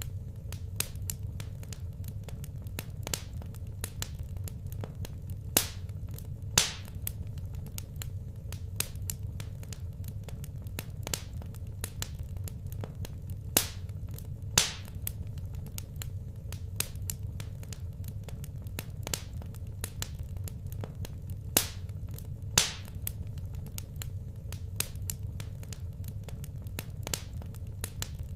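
Wood fire in a fireplace crackling, with many small irregular snaps and a few sharp, louder pops over a steady low rumble.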